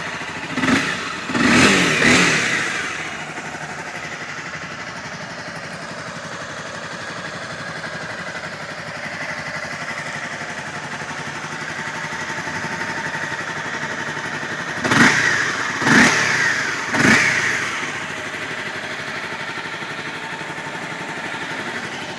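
A 2012 Honda CBR250R's fuel-injected 249cc single-cylinder four-stroke engine idling steadily. The throttle is blipped twice in the first couple of seconds and three more times, about a second apart, some fifteen seconds in.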